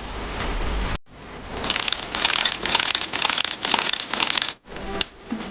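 Repeated scratchy scraping strokes, about three a second, for about three seconds, after a second of steady rustling that stops abruptly.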